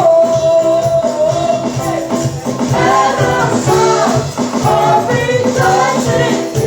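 Congregational worship singing over a live band, with a bass line and shaken percussion such as a tambourine or shaker; a long held sung note opens it.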